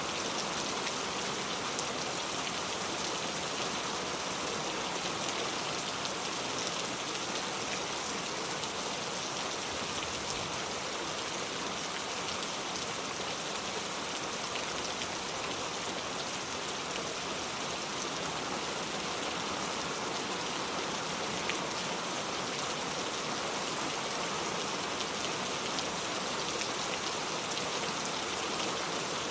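Steady rain falling: an even hiss with a fine patter of drops that does not change.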